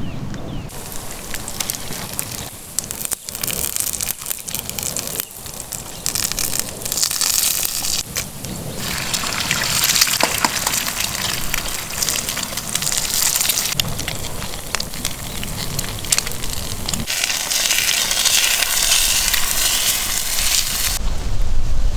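Food sizzling and crackling as it fries over a campfire: a steady hiss full of small pops that shifts in loudness and tone at several sudden cuts.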